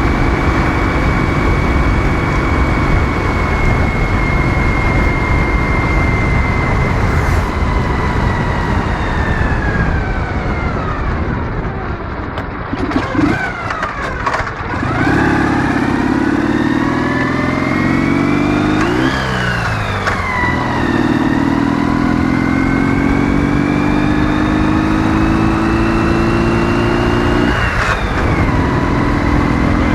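Ural motorcycle's 650 cc flat-twin engine under way. It runs steady, then its pitch falls as it slows, with a few knocks about halfway. It then accelerates hard, rising in pitch through two gear changes that each bring a sudden drop in revs.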